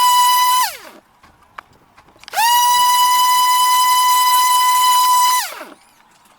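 Two long, loud, buzzy whistle-like blasts on one steady pitch, each sliding up into the note and dropping away at the end. The first dies out just under a second in, and the second starts after a short gap with a single click.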